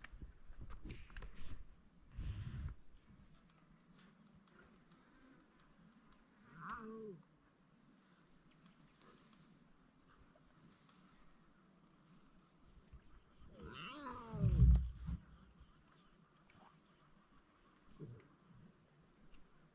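Lions growling, a short growl about seven seconds in and a louder, deeper one about fourteen seconds in, each falling in pitch, over a steady high trill of insects.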